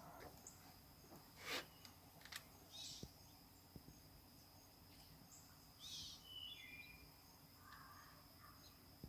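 Faint bird chirps: a few short, high calls scattered over quiet outdoor background. A thin steady high tone runs underneath, and there is one brief sharp sound about a second and a half in.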